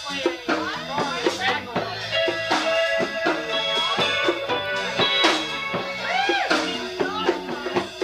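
Live band playing a song: electric guitar, bass guitar and drum kit with bongos, the drums keeping a steady beat and a few sliding notes in the middle.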